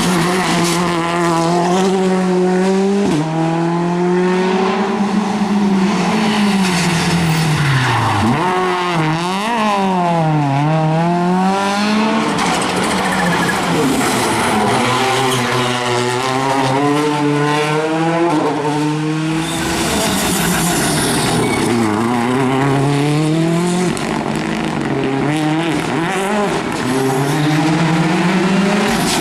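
Rally car engines at full effort on a stage, revving up and dropping back over and over through gear changes and corners, with tyres squealing.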